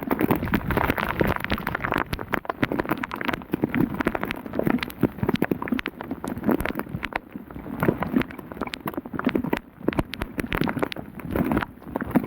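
Heavy rain, with drops striking close to the microphone as a dense, irregular patter of sharp clicks.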